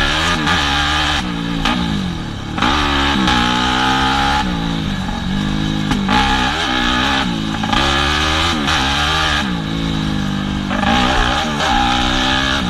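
Yamaha WR250F's single-cylinder four-stroke engine revving up and falling back again and again as the throttle is opened and closed, with no steady speed for more than a second or two.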